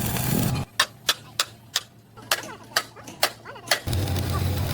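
About eight sharp knocks, irregularly spaced and each with a short ring. A steady low machine hum drops out before them and comes back near the end.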